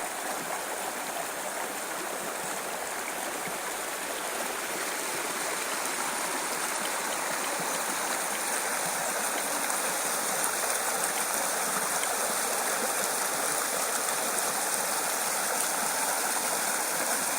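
A small woodland burn rushing over stones, a steady, even splashing hiss that gets a little louder over the first several seconds.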